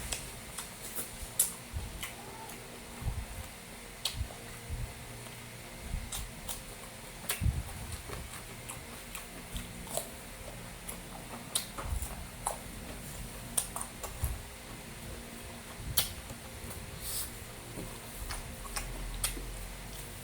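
Close-up eating sounds: a person chewing beef kare-kare and rice, with scattered irregular clicks, smacks and light taps of utensils, over a steady faint hum.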